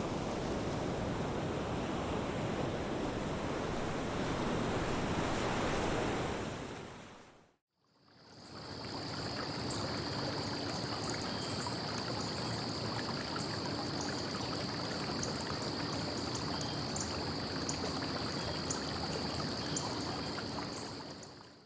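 Steady rushing of surf-like water, fading out about seven seconds in. After a moment of silence, a second steady rush of water or wind begins, with a steady high-pitched drone and faint scattered ticks over it.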